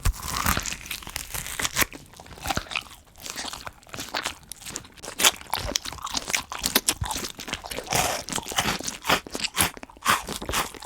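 Praying mantis chewing on a cockroach, heard close up: a steady run of irregular crisp crunches and crackles as its mouthparts break through the roach's shell.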